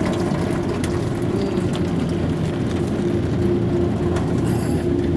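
Automatic car wash machinery running, heard from inside the car: a steady low mechanical rumble with a hum that drops out and returns a few times.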